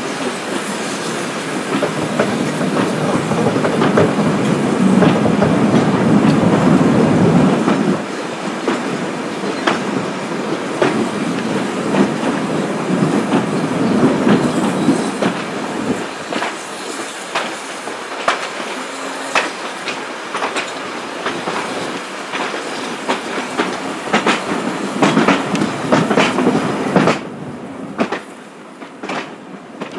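Vintage railway coaches running along jointed track, heard from an open coach window: a steady rumble with wheels clicking over rail joints and pointwork. The clicks come thicker in the second half, and the rumble drops away sharply near the end.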